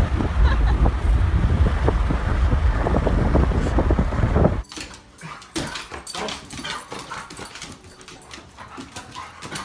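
A dog whimpering and yelping over a loud, steady low rumble. About halfway through, the rumble cuts off abruptly, leaving quieter clicks and a few short dog sounds.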